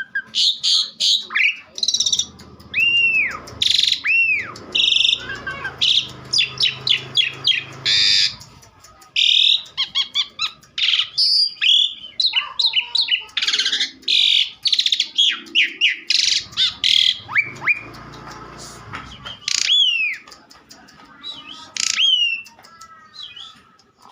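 Asian pied starling (jalak suren) in full, non-stop song: a varied run of loud arching whistles, quick clicking rattles and scratchy chatter notes, with only brief pauses.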